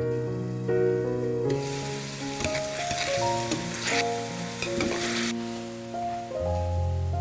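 Okra sizzling in oyster-sauce liquid in a stainless pan, with a few sharp clicks of a metal ladle against the pan; the sizzling starts about a second and a half in and stops after about five seconds. Background music with a melody of held notes plays throughout.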